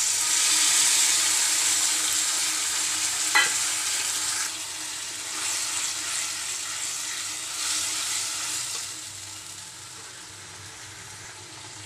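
Tomato puree poured into hot oil in a wok, sizzling loudly at first, then frying more quietly as a spatula stirs it through the onion masala. A single sharp clink comes about three and a half seconds in, and the sizzle dies down over the last couple of seconds.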